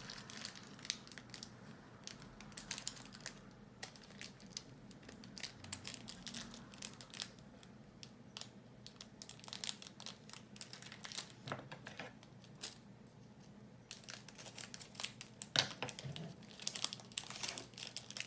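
Toy packaging crinkling and being torn open by hand, a long run of irregular crackles and small tearing sounds that gets busier near the end, as a small toy necklace is freed from its package.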